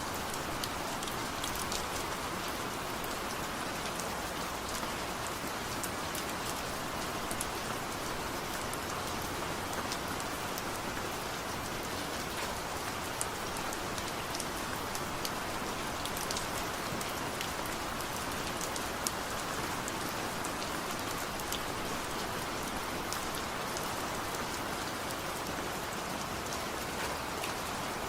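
Steady gentle rain falling, with no thunder: an even hiss, with scattered small drop ticks heard through it.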